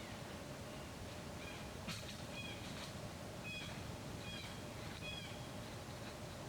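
Baby monkey giving a string of short, high squeaking calls, repeated every half second to a second, over a faint steady hum.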